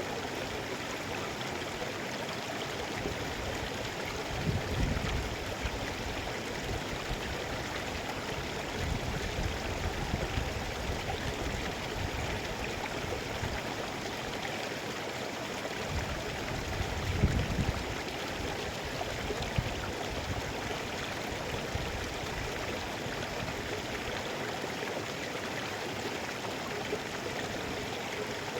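Mountain river flowing steadily, an even rushing of water, with a few brief low rumbles.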